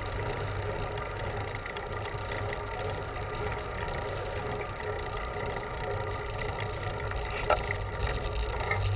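Steady riding noise from a bicycle rolling on pavement, with one sharp click about seven and a half seconds in.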